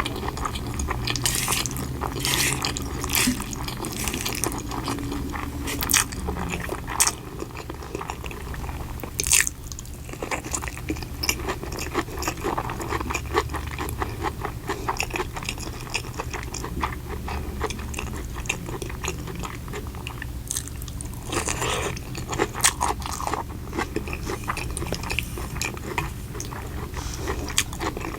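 Close-miked eating sounds: a person biting and chewing food, with many crisp crunches scattered through.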